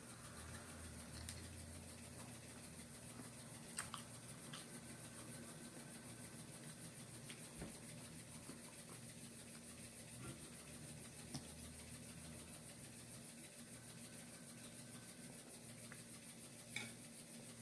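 Faint chewing and mouth sounds of a person eating fried okra, with a few small clicks scattered through. Near the end, a short sip of a drink through a straw.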